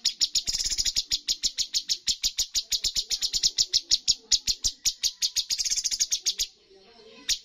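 Cucak cungkok songbird calling in a rapid, even run of short sharp notes, about nine a second. It breaks off about six and a half seconds in and starts again near the end.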